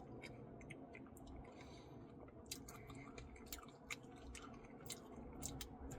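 Faint chewing of a mouthful of Blizzard soft-serve with Reese's Pieces and cookie dough: soft, wet mouth sounds with scattered small clicks.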